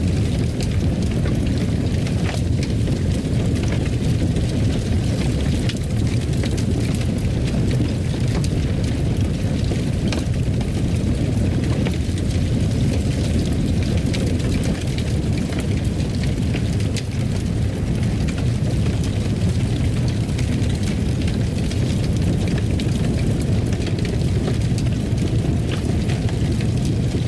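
Wood fire burning in a fireplace: a steady low rumble with frequent small crackles and pops scattered through it.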